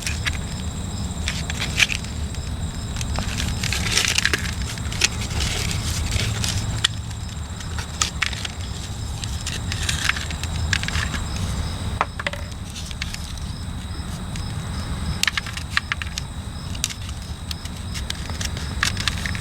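Thin ABS plastic mold being pried and peeled off a cured concrete casting: irregular crackles, clicks and snaps of the flexing plastic, over a steady low rumble.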